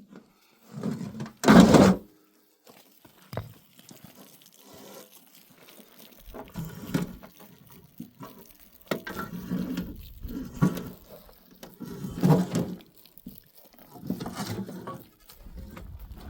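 Sheep bleating, several separate calls, the loudest about one and a half seconds in.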